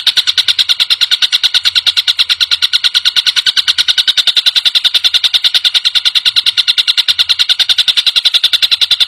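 Tengkek buto kingfisher giving a fast, unbroken chattering call: a steady rattle of high notes, about ten a second.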